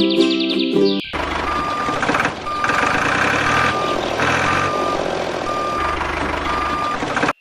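A vehicle's reversing alarm beeping steadily about once a second over a noisy engine rumble. It starts suddenly about a second in and cuts off abruptly near the end.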